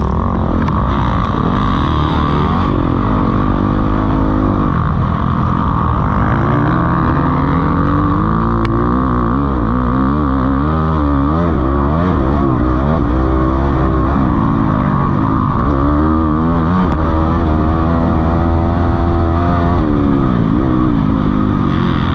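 Motocross bikes racing, their engines revving up and falling back again and again as they work around the track, several bikes at once at times.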